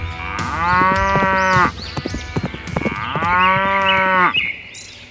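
A cow mooing twice: two long calls, each about a second and a half, with a short pause between them.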